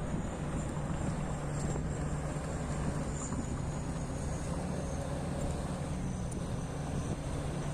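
Diesel engine of heavy mining equipment running steadily, a low even drone with no change in speed.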